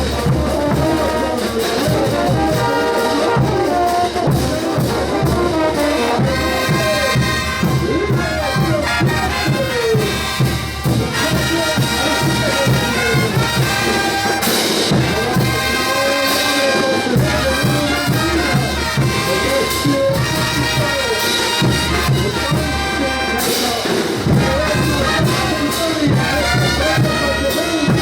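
Bolivian brass band playing ch'uta carnival dance music: trumpets and trombones carrying the melody over a steady drum beat.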